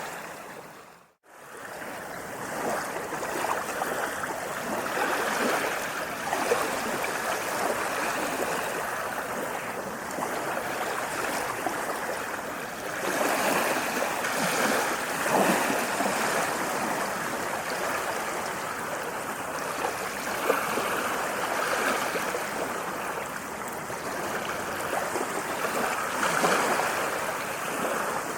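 Sea waves washing onto a shore: a steady rush of water that swells and eases every several seconds. About a second in the sound fades briefly to silence and comes straight back, like an edit or loop point.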